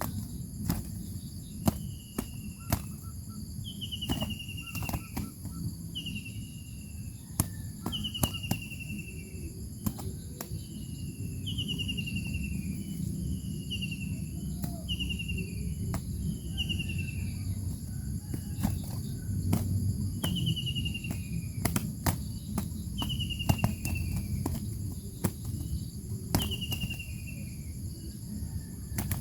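A bird repeatedly gives a short call that slides downward, about one every two seconds, over a steady high drone of insects. Sharp clicks are scattered through.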